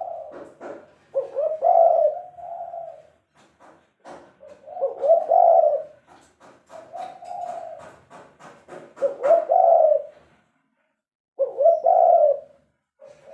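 Spotted dove cooing, a run of repeated low coo phrases of a second or two each with short breaks between them, and scattered faint clicks in the middle.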